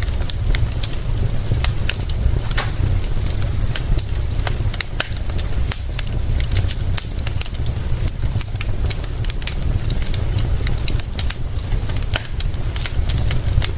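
Wood fire crackling, with frequent sharp pops, over a steady hiss of rain and a constant low rumble.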